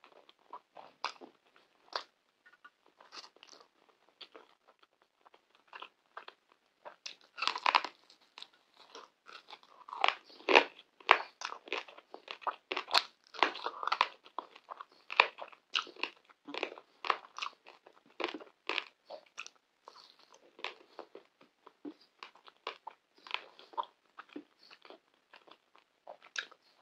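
Close-miked chewing and mouth sounds of a person eating saffron rice and pan kebab by hand: a dense, irregular run of short wet clicks and smacks, louder about a third of the way in.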